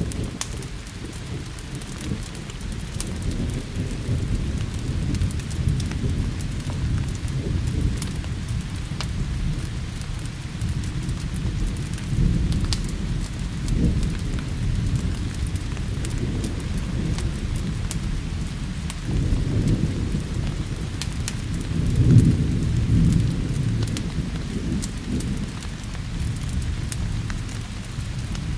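Rolling thunder rumbling low and continuously over steady rain, swelling about halfway through and again, loudest, about three quarters of the way in. Scattered sharp crackles, as from a wood fire, sit on top.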